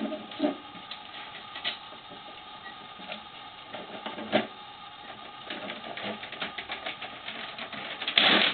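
Plastic toy garbage truck clicking and rattling as it is worked, with scattered sharp clicks, a run of quick clicks in the second half and a loud clatter just before the end.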